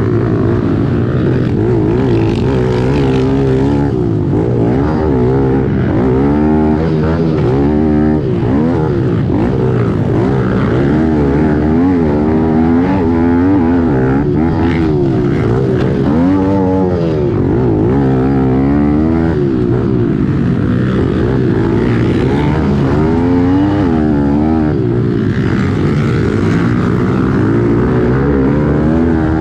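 Kawasaki KLX110L pit bike's small single-cylinder four-stroke engine, heard onboard, revving up and falling back over and over as it races round the motocross track.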